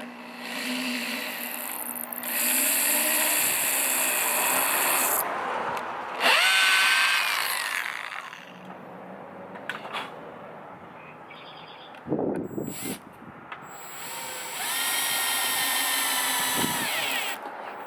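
Power drill driving wood screws into a wooden birdhouse roof, in three runs; the motor whines up in pitch as the second run starts, about six seconds in.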